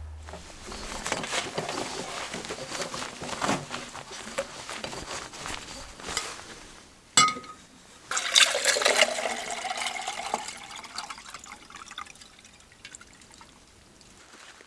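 Liquid being poured into a container, with a sharp click about seven seconds in; the pour then gets louder with a rising tone as the container fills, and fades toward the end.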